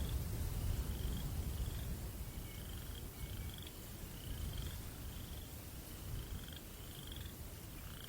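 Crickets chirping in short high trills about once a second, over a low rumble of breeze that eases after the first couple of seconds.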